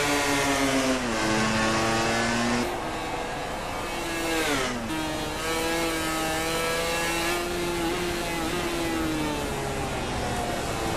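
MotoGP racing motorcycle engine at high revs, its pitch stepping and gliding with the gear changes, with a sharp drop about four and a half seconds in before it climbs again.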